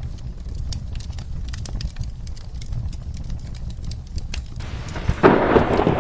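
Wood fire crackling with scattered sharp pops over a low rumble. About five seconds in, a loud clap of thunder breaks in.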